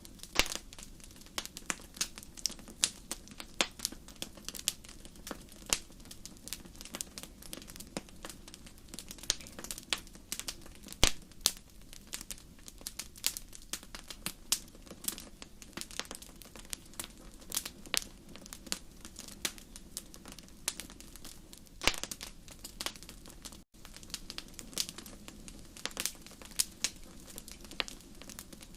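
Wood fire crackling in a fireplace: a steady run of irregular sharp pops and snaps over a low hiss, with a few louder pops.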